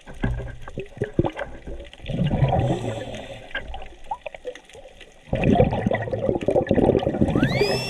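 A scuba diver's regulator exhausting bubbles underwater, twice: two long gurgling rushes of exhaled air with short clicks between them. A brief rising then falling whistle comes in near the end.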